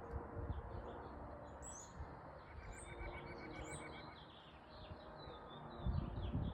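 Small songbirds chirping and twittering, many short calls overlapping, over a low background rumble that swells briefly near the end.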